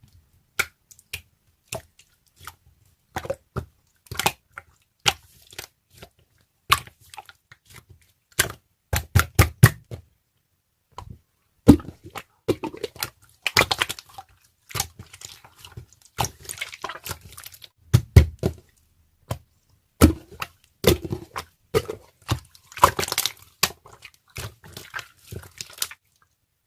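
Irregular sharp clicks and knocks, some with a low thump, coming in uneven clusters with short silent gaps.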